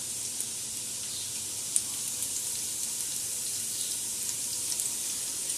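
Garlic sizzling in hot coconut oil in a stainless steel pot: a steady hiss with a few faint pops.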